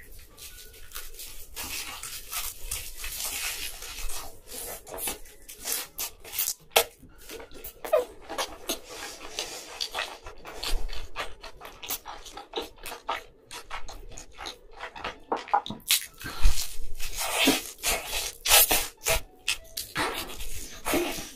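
A person biting into and chewing pizza, close-miked: irregular crunching clicks and wet chewing sounds in quick bursts, with a louder bite near the end.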